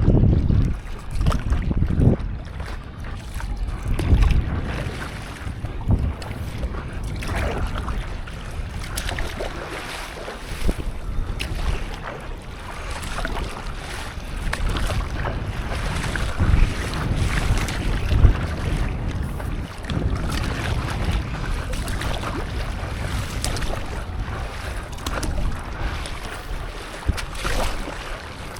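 Wind buffeting the microphone over the sea sloshing and splashing around a stand-up paddleboard, with uneven gusts and short splashes throughout.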